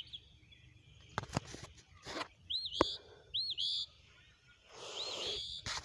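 Songbird chirping in short, high, arched notes, three of them spaced about a second apart. Between the chirps come a few sharp clicks and a brief rustle near the end.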